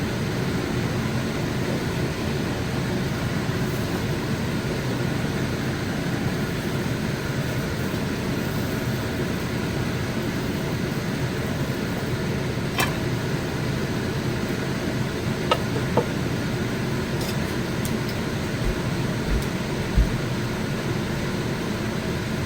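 Steady, even whooshing noise, like a running fan, with a few light clicks and knocks partway through and near the end.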